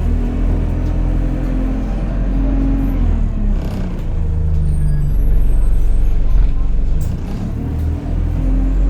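Engine and drivetrain of an Alexander Dennis Enviro200 single-deck bus heard from on board, a loud whining drone. Its pitch drops about three seconds in, stays lower for a few seconds, then rises again near the end, with a short hiss about three and a half seconds in.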